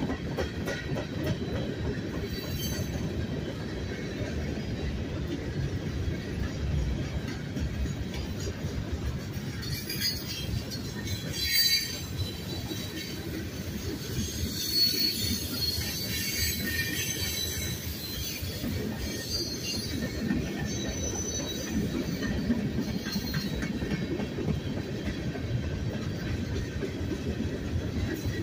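Freight train cars rolling past on the rails: a steady low rumble of steel wheels with clicking over the rail joints. Brief high-pitched wheel squeals break in near the middle, the loudest about twelve seconds in.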